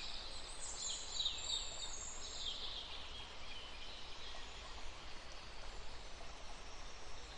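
Faint outdoor background with birds chirping during the first two or three seconds, then a steady low hiss.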